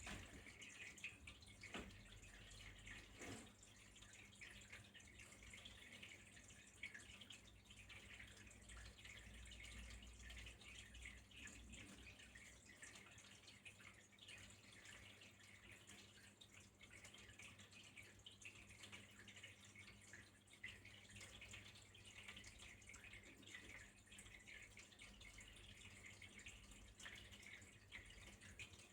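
Faint, steady trickling and dripping of flowing water, with a couple of soft knocks a few seconds in.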